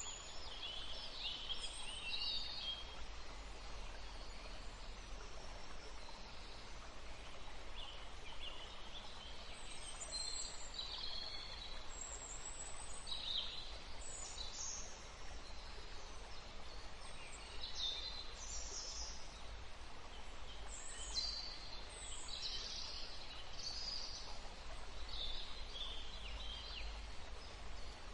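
Wild songbirds chirping and singing, short high calls and trills coming every second or so throughout, over a steady low rumble.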